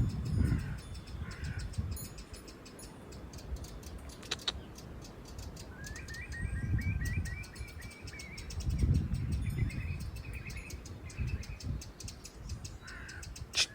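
Eurasian wren scolding in a rapid, harsh ticking rattle, its alarm call at a cat close by. Low rumbles swell up a few times underneath.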